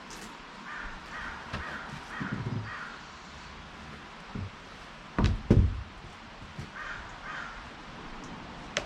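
A bird calling in two short series of repeated calls, with two heavy thumps about five seconds in.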